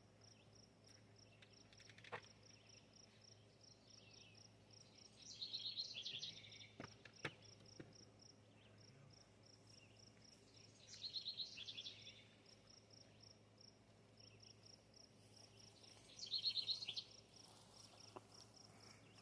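Faint outdoor ambience: an insect chirping in a steady, fast pulse, with a bird calling in three short bursts about five seconds apart.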